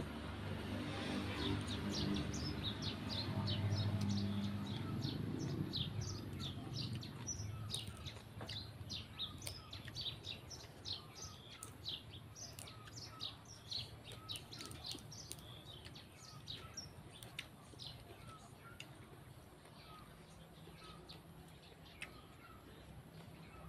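Small birds chirping outdoors in many short, quickly repeated calls. A low hum, loudest about four seconds in, fades out by about six seconds.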